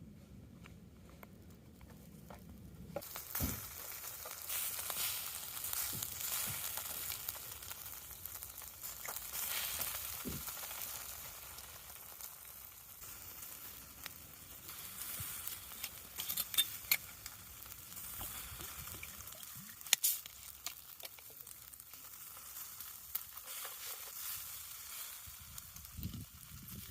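Seasoned meat sizzling as it cooks on a hot pan or grill, starting about three seconds in, with scattered sharp pops and crackles of spitting fat.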